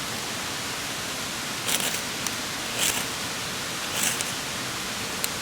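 Three quick scrapes of a ferrocerium rod (firesteel) being struck, roughly a second apart, throwing sparks onto natural tinder to light a fire. A steady hiss lies underneath.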